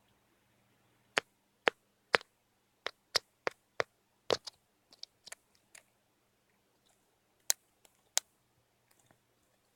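A pet bird's beak pecking and tapping on a hard surface: a string of sharp, irregular clicks with a short pause in the middle.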